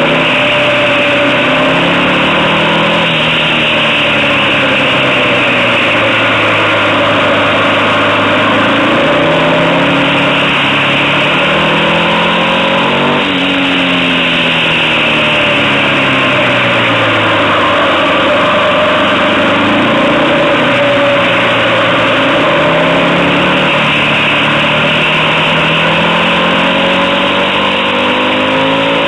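Motorcycle engine under way, its revs rising and falling again and again, with an abrupt change in pitch about halfway through.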